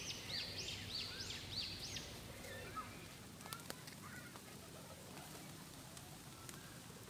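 Faint bird calls: a bird repeats a high, arched chirp about three times a second for the first two seconds, then only scattered softer chirps and a few faint clicks follow.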